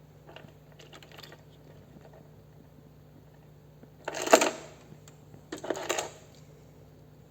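Handling noise: a few faint clicks, then two short rustling, clinking bursts about four and five and a half seconds in, over a steady low hum.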